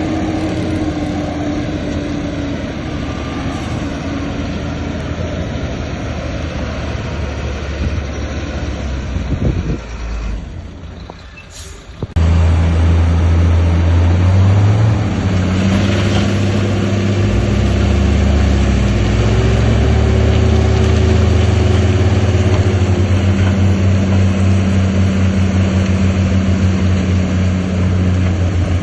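Heavy diesel engines of earthmoving machines, a bulldozer and dump trucks, running. The sound thins out briefly a little after a third of the way in, then comes back suddenly, louder and steadier.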